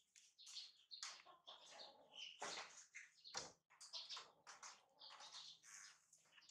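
Faint chirping of birds: many short, high chirps in quick, irregular succession.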